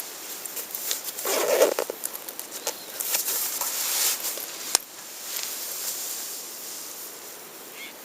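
Wood campfire crackling and hissing, with irregular small pops and one sharp pop about halfway through.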